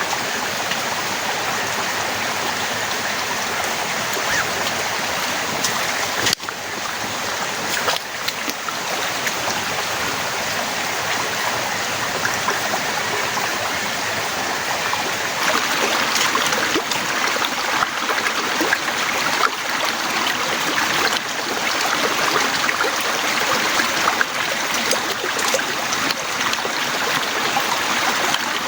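Heavy rain falling steadily, a dense hiss full of small drop ticks, growing a little heavier about halfway through.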